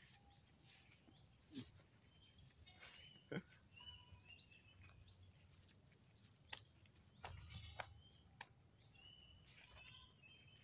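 Faint bird chirps and short trills, scattered and intermittent, with a few sharp clicks in between.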